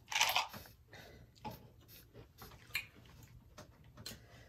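Close-miked eating: a bite near the start, then chewing with scattered soft mouth clicks.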